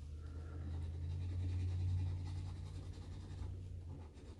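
Scratch-off lottery ticket being scratched, its coating rubbed off with a steady scraping.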